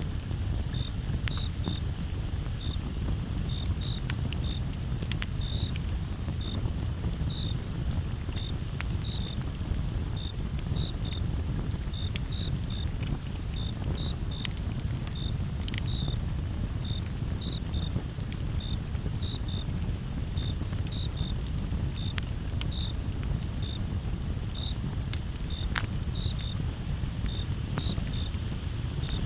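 Wood campfire burning with a steady low rumble and irregular crackles, a few sharper pops standing out, while crickets chirp steadily, one to two chirps a second.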